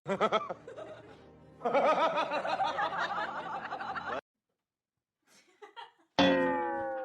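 Laughter, cut off suddenly a little past the middle. After a pause, a tone slides steadily downward like a comic sound effect.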